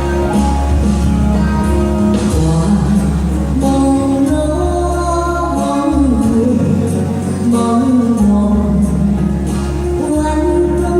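A woman singing a Mandarin pop ballad live, over musical accompaniment with a steady bass, her voice sliding between held notes.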